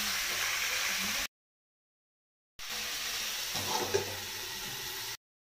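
Mutton pieces and onions sizzling in hot oil in an iron kadhai, with a metal spatula briefly scraping the pan about four seconds in. The sizzle cuts off to dead silence twice.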